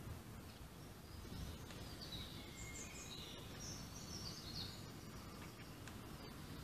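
Faint bird chirps, clustered mostly between about two and five seconds in, over a low steady background rumble.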